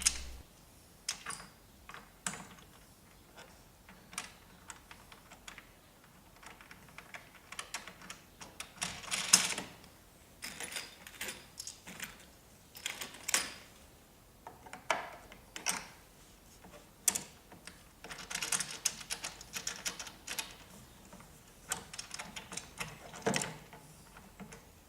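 Irregular clicks, knocks and short scrapes of metal coach bolts, nuts and plastic featherboards being handled and fitted to a router table fence. One longer scrape about nine seconds in is the loudest sound, and a quick run of clicks follows later.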